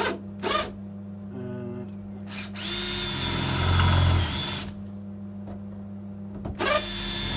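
Electric drill with a 6 mm bit drilling holes through a steel floor-panel flange for plug welds. Two short runs: the first, from about three seconds in, lasts about two seconds and is loudest in the middle; the second starts near the end.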